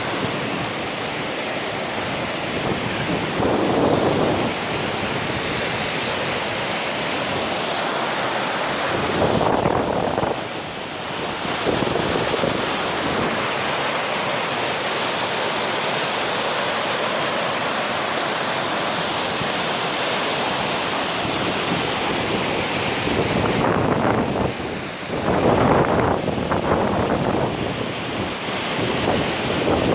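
Steady rush of a waterfall and fast-running water, with several gusts of wind buffeting the microphone that swell louder for a second or so.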